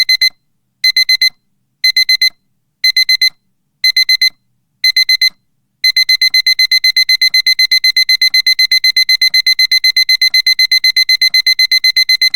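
Digital alarm clock beeping, a high electronic beep. It starts in quick clusters of about four beeps once a second, then about six seconds in switches to rapid unbroken beeping. The alarm signals that the countdown has reached zero.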